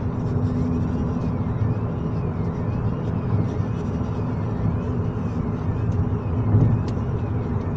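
Road noise heard inside a moving car: a steady low rumble of engine and tyres at cruising speed. A faint high tone rises and falls about once a second.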